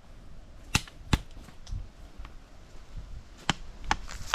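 A few scattered sharp clicks and snaps: two close together about a second in, then several more near the end.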